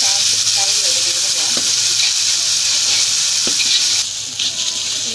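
Ground chilli spice paste sizzling in hot oil in a stainless steel wok while a metal ladle stirs it, with a few short knocks of the ladle against the pan. The sizzle drops in level about four seconds in.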